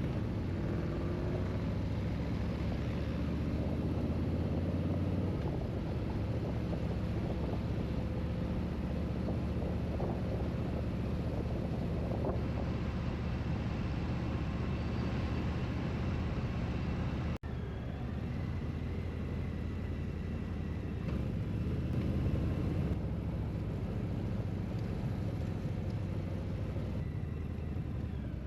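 Motorcycle engine running steadily on the road, with wind and road noise, a brief break about two-thirds of the way through.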